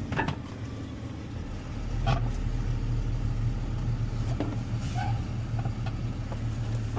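Diesel engine of a box truck running at low speed, a steady low rumble that grows louder about two seconds in, with a few faint clicks or creaks.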